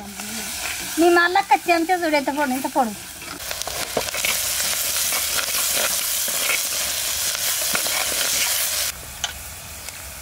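Ingredients sizzling loudly in a hot pan, starting about three seconds in and cutting off suddenly near the end, with a few knocks of a stirring spoon against the pan. A person's voice is heard briefly before the sizzling.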